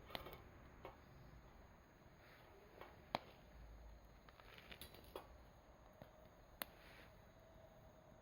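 Campfire crackling quietly: a few sharp, scattered pops, the loudest about three seconds in.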